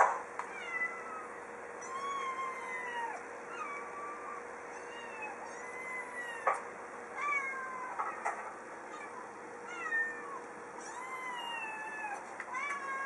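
Cat meows played back through a computer's speakers: a run of short calls, each rising then falling in pitch, about one a second. A couple of sharp clicks come in around the middle.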